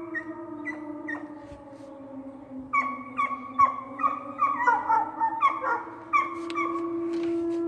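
A loud, steady, siren-like blaring tone coming from the woods. Its pitch sags a little and then climbs back. Over it, a dog yips and howls in short falling cries, a few at the start and then a run of them through the middle.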